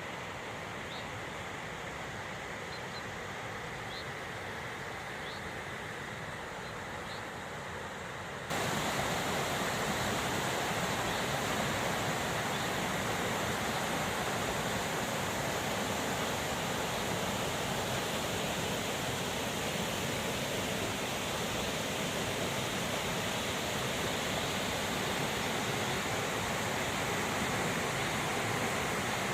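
Swollen river water rushing through a pool, a steady wash of noise that steps up louder about eight seconds in.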